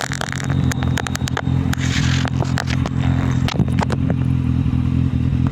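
Kawasaki Z750 motorcycle engine running at steady revs, with a deep, even exhaust note and scattered sharp clicks.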